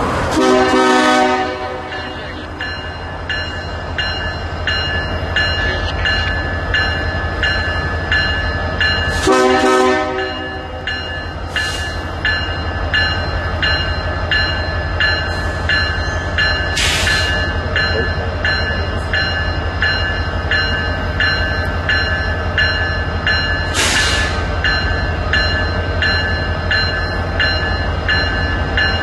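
A train horn blows two short blasts, about a second in and again around nine seconds in. Then a train rolls past with a steady rumble and an even, rhythmic clatter of wheels over the rail joints.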